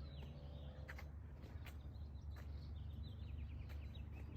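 Small birds chirping in quick trills over a steady low outdoor rumble, with a few scattered sharp clicks.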